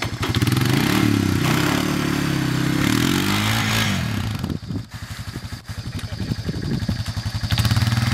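Honda ATV engine revving up and down, then dropping to a choppy low idle about four and a half seconds in, and picking up loud again near the end.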